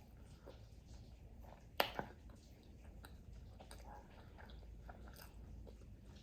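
A person chewing fried food up close, with small wet mouth clicks and two sharp crunches a little under two seconds in.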